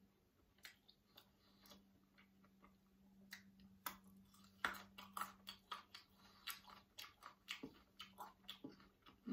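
Mouth-close crunching as a raw carrot stick is bitten and chewed: a run of crisp crunches, several a second, from about three seconds in.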